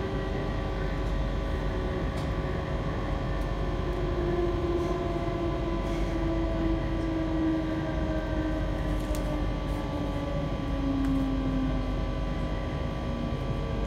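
Passenger train running, heard from inside the carriage: a steady rumble of wheels on the track with a steady hum and a motor whine that falls slowly in pitch.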